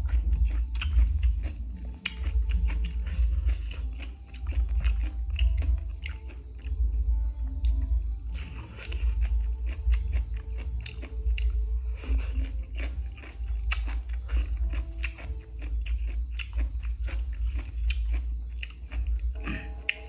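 Close-up crunchy chewing of green papaya salad: a fast, uneven run of wet crunches and clicks, pausing briefly a few times.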